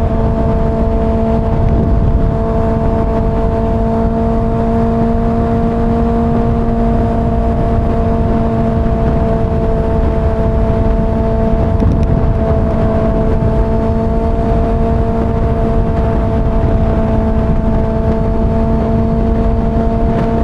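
Kawasaki ZX-6R's 636 cc inline-four holding a steady cruise at freeway speed, its engine tone unchanging, under a heavy rush of wind noise on the helmet microphone.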